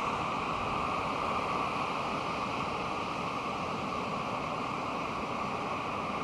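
Pacific Ocean surf on a sandy beach: a steady wash of breaking waves with no single wave standing out.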